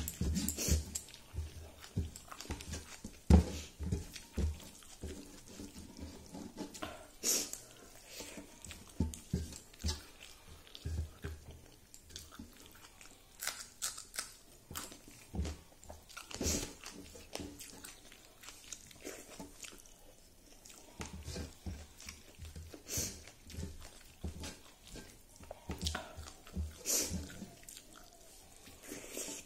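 A person eating rice by hand, close up: chewing and lip smacking, with irregular sharp mouth clicks and crunches.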